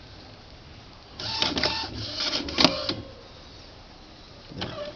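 Epson CX3700 inkjet printer running its start-up initialization: the print-head carriage motor whirs and clatters for about two seconds, then a short whir again near the end.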